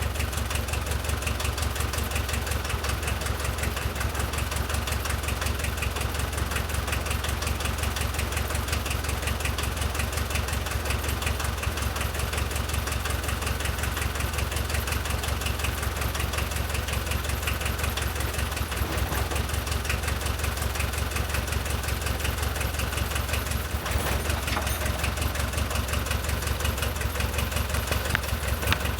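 VW T3's diesel engine idling steadily with an even, rapid diesel clatter. Its injection pump has just been cleaned and reassembled, and the engine runs but still needs adjustment.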